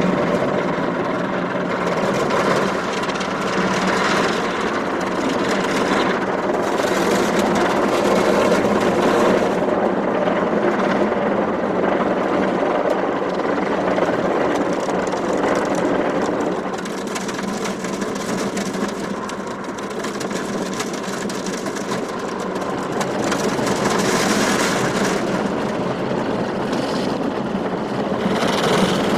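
Automatic car wash machinery running: a loud, dense, steady rushing noise with small surges, easing a little for a few seconds about two-thirds of the way through and building again near the end.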